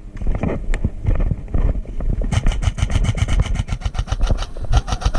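Airsoft gun firing a long full-auto burst of about eleven shots a second, starting about two seconds in, followed by a second shorter burst near the end. Irregular low thumps and rumble of movement against the microphone run underneath.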